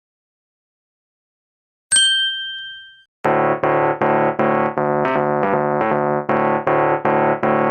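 Silence, then a single bright chime sound effect about two seconds in that rings away over a second, followed from about three seconds in by electric-piano background music with chords pulsing in a steady rhythm.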